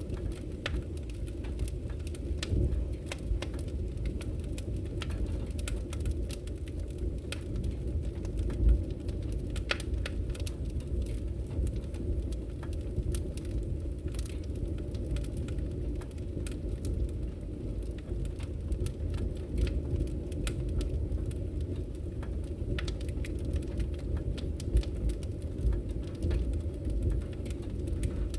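Wood fire burning in a fireplace: a steady low rumble of flames with frequent sharp crackles and pops, one louder pop about nine seconds in.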